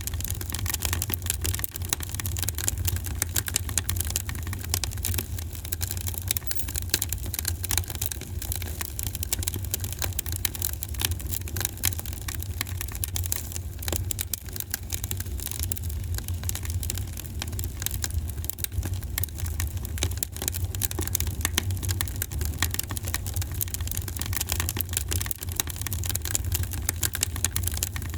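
Fireplace fire crackling steadily: a dense stream of small pops and snaps over a low, steady rumble.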